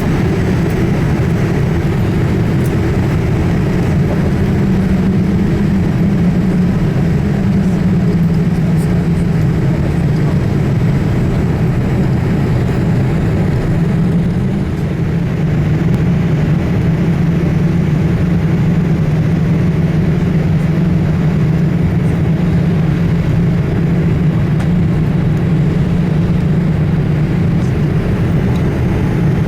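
Steady jet-engine and airflow rumble heard inside the cabin of a Boeing 787-8 Dreamliner with General Electric GEnx-1B engines, a constant low drone under an even rushing noise.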